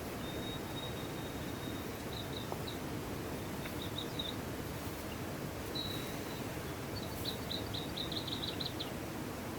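Steady rush of a mountain stream, with a thin high-pitched call over it: a held note early on, short chirp groups, then a fast run of about a dozen chirps near the end.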